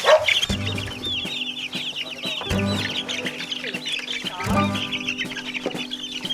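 A flock of young chickens peeping continuously in many short, high chirps, with a few lower clucks among them.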